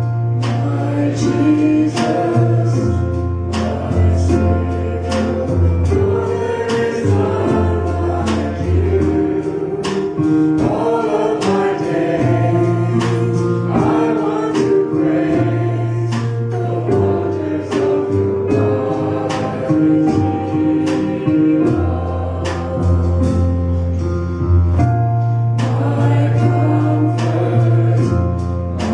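Choir singing a gospel worship song with a band, over steady bass notes and a regular drum beat.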